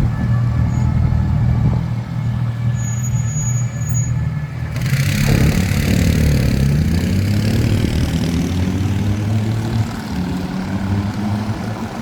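A vehicle engine running with a steady low hum. About five seconds in, a loud hiss of noise joins it and the engine's pitch dips and rises again.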